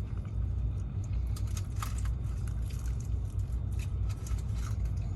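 Steady low rumble of a tractor-trailer's diesel engine heard inside the cab, with scattered light clicks and rustles.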